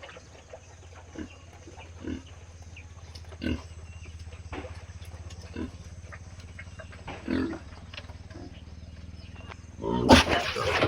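Pigs grunting at intervals of a second or two over a steady low hum, with a sudden loud outburst near the end.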